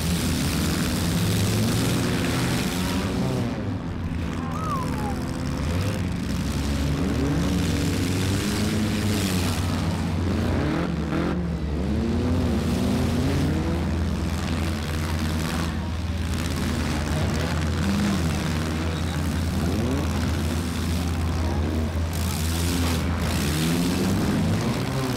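Several four-cylinder demolition derby car engines running at once over a steady low drone, revving up and down repeatedly and overlapping.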